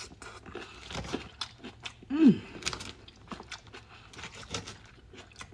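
Close-up eating of a salad: crunching and chewing with scattered small clicks, and a brief voiced sound about two seconds in.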